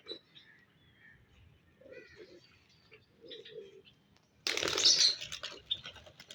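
Pet pigeon cooing softly a couple of times, then a loud burst of wing flapping about four and a half seconds in, lasting under a second.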